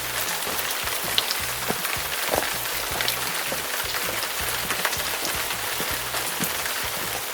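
Steady hiss of falling water, dotted with many small drip-like ticks, over a repeating low music bassline.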